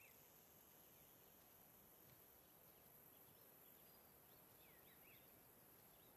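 Near silence: faint outdoor ambience with a steady high hiss and a few short bird chirps, once near the start and in a small cluster a little past the middle.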